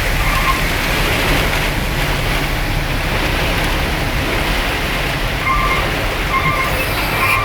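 Heavy rain falling: a loud, steady rushing noise with a low rumble underneath. Short high-pitched tones come once about half a second in and three times near the end.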